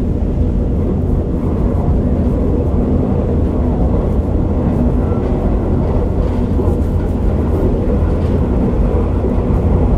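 Onboard running sound of a KiHa 47 diesel railcar under way: a steady low diesel engine and wheel rumble. It is muffled, recorded from inside a pocket.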